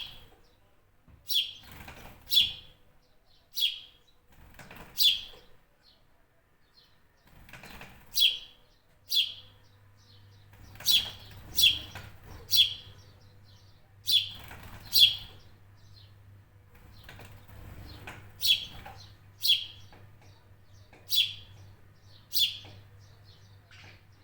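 A bird repeatedly giving short, sharp chirps, each falling quickly in pitch, about fifteen in all, spaced unevenly and often in close pairs.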